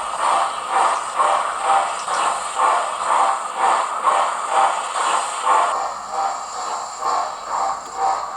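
Hornby model Flying Scotsman's onboard sound unit playing slow steam-locomotive exhaust chuffs, about two a second, over a steady hiss.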